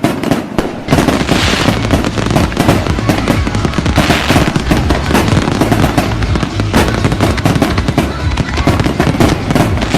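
A fireworks barrage: rapid, overlapping bangs and crackling. Separate sharp reports turn into a dense, continuous volley about a second in.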